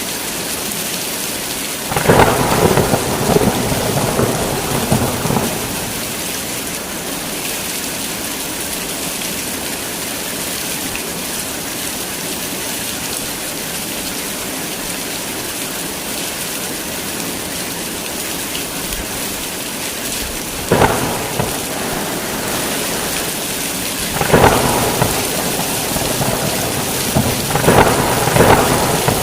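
Heavy rain falling steadily, with thunder cracking and rumbling over it four times: a long peal a couple of seconds in, a short crack about twenty seconds in, and two more peals close together near the end.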